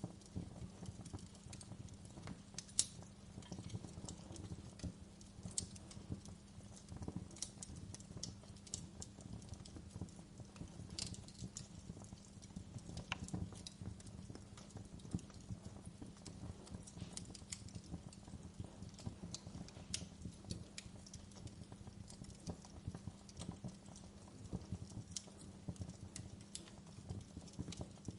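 Wood fire crackling: many sharp, irregular pops and snaps from burning logs over a steady low rumble.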